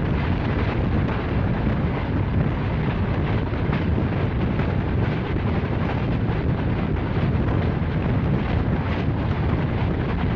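Jinnah Express passenger train running at speed: a steady, loud rumble of wheels on the track and rushing air, with faint clicks now and then.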